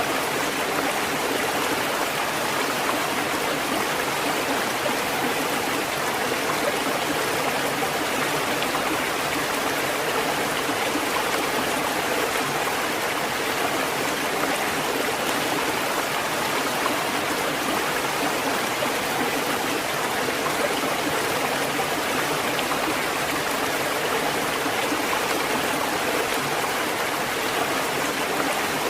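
Steady rushing water: an even, unbroken hiss that keeps one level throughout, with no rise and fall of separate waves.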